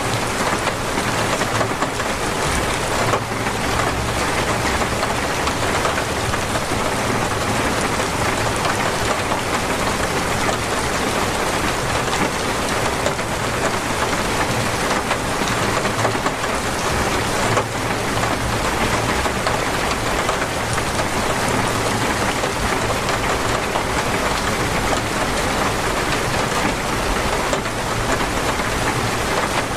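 Torrential rain pouring steadily, a dense, even hiss of drops with no let-up.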